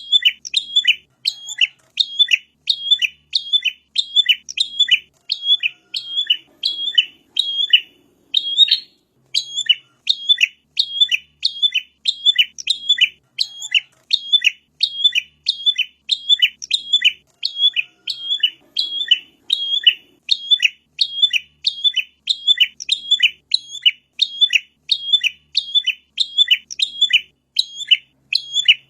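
Prinia (prenjak) song played as a looped lure recording: a fast, steady run of short, high, sharp chirps, about two a second, with one brief break about nine seconds in.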